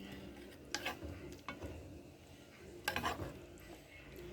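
Utensils clinking against dishes and pots, with a few sharp clicks about a second, a second and a half, and three seconds in, over a faint low background.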